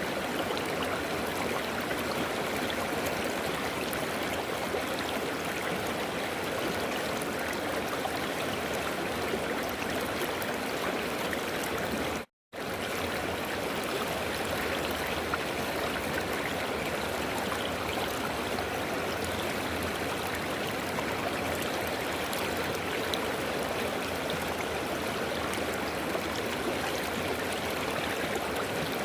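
River water flowing: a steady, even rush of a stream over stones. About twelve seconds in, the sound drops to silence for a split second.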